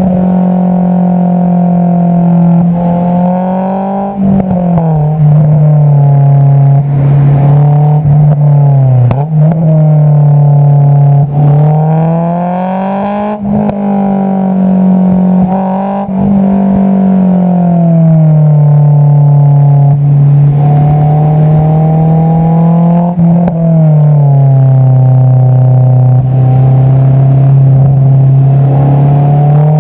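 Honda S2000 (AP2) 2.2-litre inline-four running through an Invidia Q300 exhaust, heard at the tailpipe while driving. A steady drone whose pitch holds or climbs slowly, then drops in a step about four times (near 4, 9, 17 and 23 seconds in) as the revs fall on upshifts or lifting off, and climbs again near the end.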